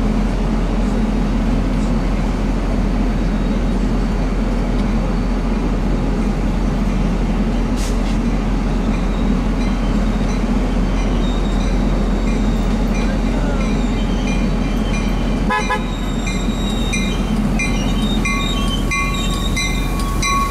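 NJ Transit commuter train approaching, led by a Comet V cab car: a steady low rumble. From about three-quarters of the way through, a quick run of clicks and repeating high tones joins it, with a steady high squeal over the last two seconds as the train draws near.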